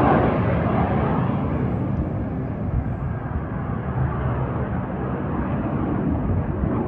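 Jet noise of Aermacchi MB-339 jets flying past: a loud, rushing rumble that peaks at the very start and slowly fades as they move away.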